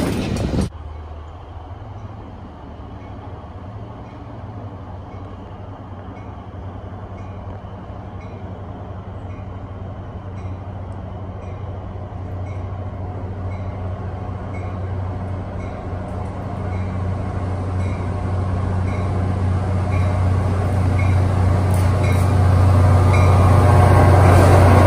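A diesel-hauled commuter train approaching a station platform: a steady low engine hum that grows steadily louder as it nears, then the rumble of the coaches rolling past near the end. A faint regular ringing repeats about once a second over it. It opens with under a second of loud passing-train noise that cuts off abruptly.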